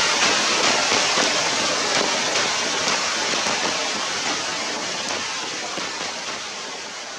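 Steady rain falling, an even hiss that slowly fades toward the end.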